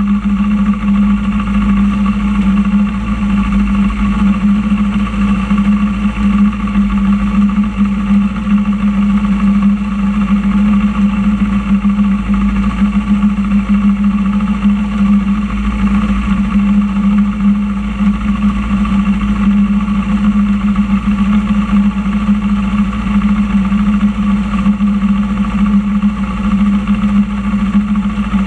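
Motorcycle engine idling at a steady, unchanging pitch.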